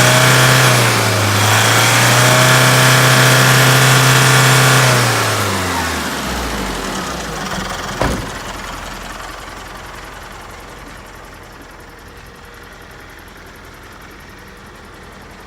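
Isuzu Elf truck engine revved and held high for about five seconds, then dropping back toward idle. A sharp click comes about eight seconds in, and the engine then runs much more quietly.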